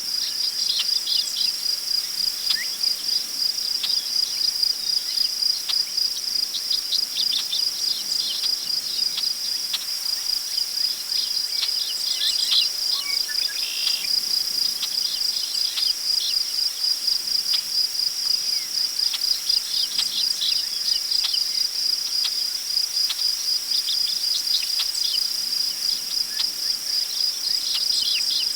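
Crickets chirping in a steady, high, rapidly pulsing chorus, with faint bird chirps here and there, loosest around the middle, over a light wind rustle through tall grass.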